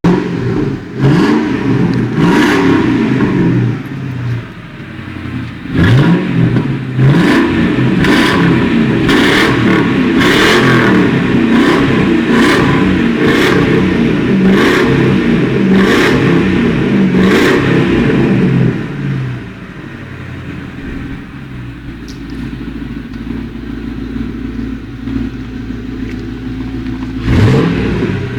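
Ford Mustang engine revved over and over, its pitch rising and falling, with sharp cracks about once a second through the middle. About 19 seconds in it settles to a quieter steady idle, and it revs again near the end.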